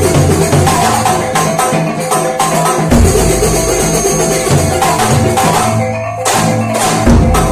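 Kuntulan music: frame drums and other hand percussion beating a busy, steady rhythm with deep drum thumps, briefly thinning out about six seconds in before picking up again.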